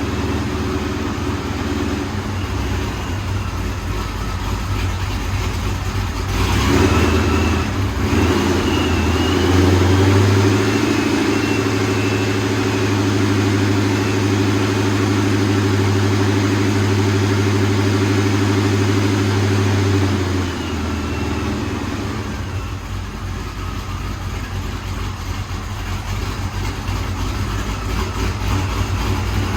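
Cammed 2003 Ford Mustang GT 4.6 L two-valve V8, breathing through long-tube headers and a Borla ATAK exhaust, running during a cold start. About six seconds in the revs are raised and held up for roughly twelve seconds, then let fall back to a lower, uneven idle. The engine is being nursed with the throttle to keep it running, because its tune makes it hard to start and reluctant to idle.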